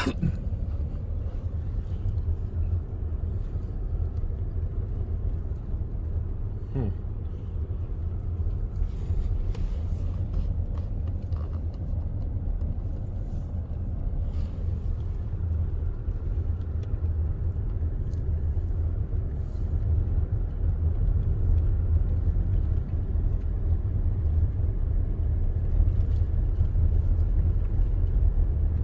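Steady low rumble of a car driving slowly, engine and road noise heard from inside the cabin, a little louder in the last few seconds.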